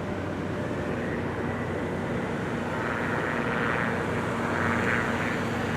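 Aircraft engines running steadily, growing slowly louder.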